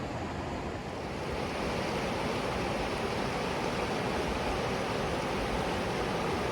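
A steady rushing noise that grows louder about a second and a half in, then holds even.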